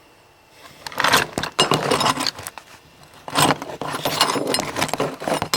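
Rattling and clattering of hard objects being handled and moved, in two spells, the first starting about a second in.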